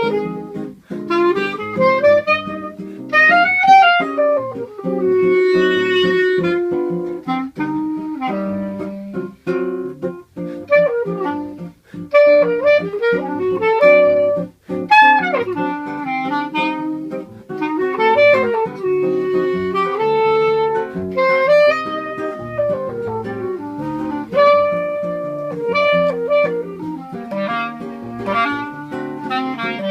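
Clarinet and seven-string acoustic guitar playing a choro as a duo: the clarinet carries a flowing melody with a few slides in pitch, over plucked guitar bass lines and chords.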